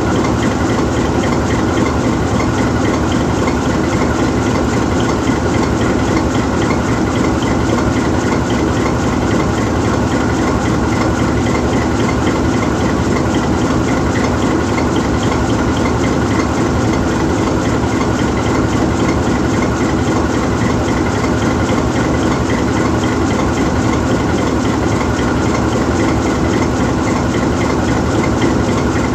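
GE U20C diesel-electric locomotive's V12 diesel engine idling steadily, the locomotive standing still.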